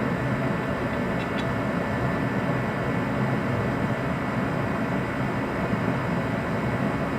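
Steady background machine hum, even in level throughout, with a couple of faint light clicks about a second in.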